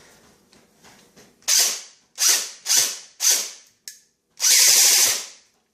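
Airsoft AEG (A&K M4 with an SP110 spring) firing on a new high-performance motor: four single shots about half a second apart, then a burst of about a second. The gearbox cycles cleanly, with none of the grinding it made on the stock motor, which was too weak for the spring.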